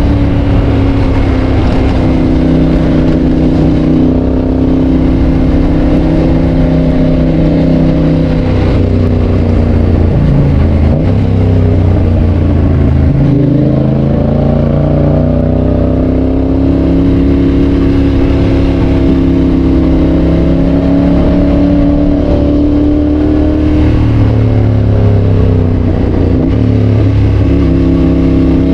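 Yamaha Tracer 7's parallel-twin engine through a GPR aftermarket exhaust, under way with the revs rising and falling, dropping sharply a few times at gear changes.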